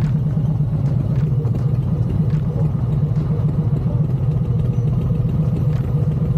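Motorcycle engine running steadily at low speed in slow traffic, a constant low rumble with no revving.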